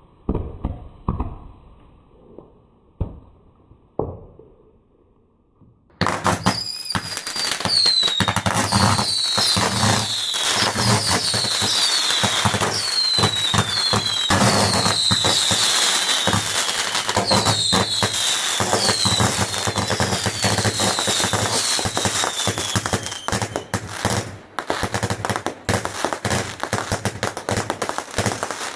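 Fireworks: a few separate bangs, then from about six seconds in a loud, dense barrage of crackling bangs laced with many short falling whistles. The whistles die out near the end while the crackling goes on.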